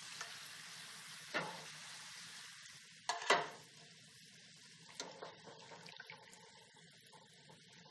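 Yucca chips frying in oil with a quiet sizzle that fades away after about three and a half seconds. The bubbling is dying down as the water cooks out of the chips, the sign that they will be crisp when cool. A wire spider strainer clinks against the pan a few times, loudest about three seconds in.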